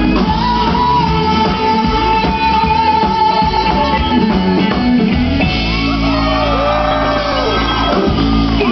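Live band playing amplified music with singing. A long held note carries through the first half, with sliding notes over steady chords near the end.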